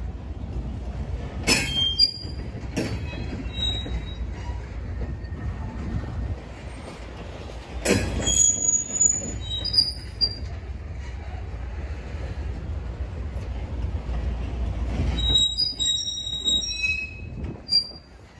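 Freight train of covered hopper cars rolling past: a steady low rumble of wheels on rail, broken by sharp clanks and short, high wheel squeals, with a cluster of squealing near the end.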